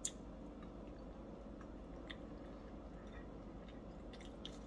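Faint chewing of a peanut butter cup with crunchy peanut brittle pieces, with a few soft scattered clicks.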